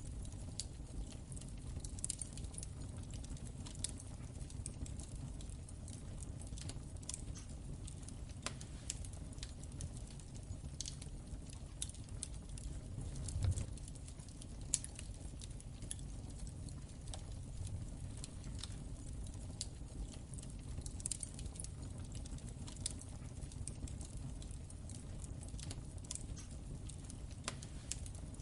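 Wood fire in a fireplace crackling: irregular small crackles and pops over a low steady rumble, with a louder dull thump about halfway through and a sharp pop just after it.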